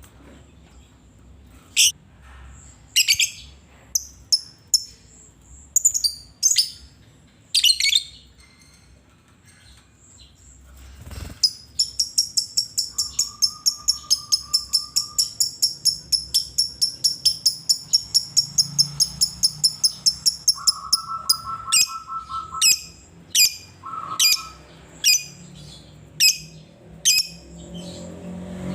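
Lovebird chirping: sharp, scattered high chirps, then about halfway through a long fast run of chirps at about five or six a second lasting roughly ten seconds, then spaced chirps again.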